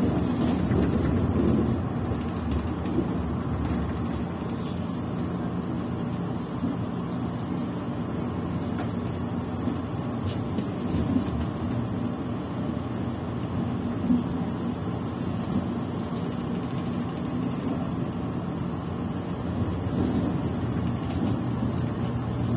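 Tilting express train running at speed, heard from inside the passenger cabin: a steady low rumble of wheels on rails with a faint steady hum and a few light knocks.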